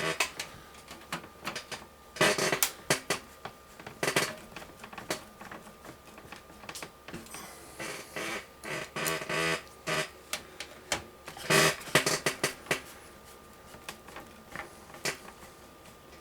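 Hands working on PC case hardware: irregular clicks, knocks and short scraping rattles of metal and plastic parts, loudest in bursts about two, four, nine and twelve seconds in.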